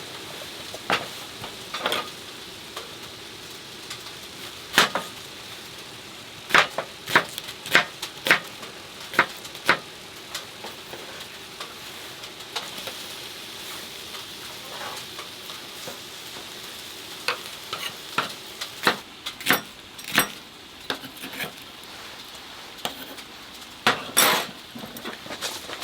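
Marinated pork sizzling steadily in a frying pan, with a run of sharp knocks and clinks as a utensil stirs and taps against the pan.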